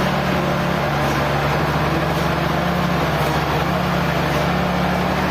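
Sawmill machinery running steadily with a continuous low engine-like drone.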